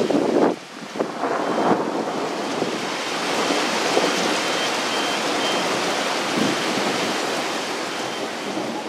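Heavy rain pouring down steadily in a thunderstorm, with a few louder rushing surges in the first two seconds.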